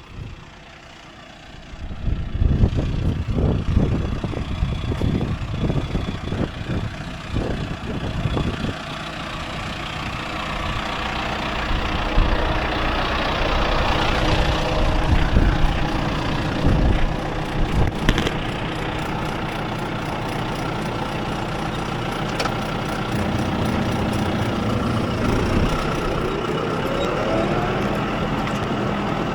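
Tractor engine running steadily while pulling a poultry-litter cruster, with irregular low rumbling and thumps for the first several seconds. Near the end the pitch rises as the engine revs up.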